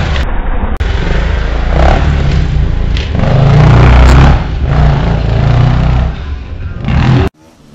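Enduro dirt bike engine revving hard close by, surging and easing several times as the rider climbs over a sand mound, with a sharp knock about three seconds in. The sound cuts off abruptly near the end.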